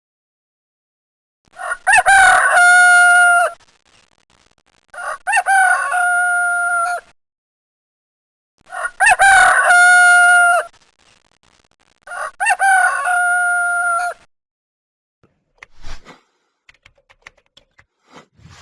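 Rooster crowing four times, each crow about two seconds long with a quick rise into a long note held on one pitch.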